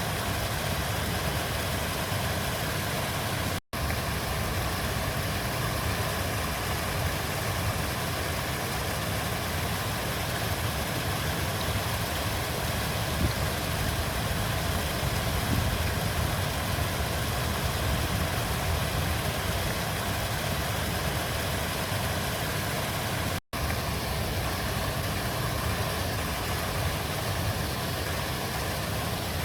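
A river flowing steadily, a continuous rushing with a deep low rumble. The sound cuts out for a split second twice, about four seconds in and again about twenty seconds later.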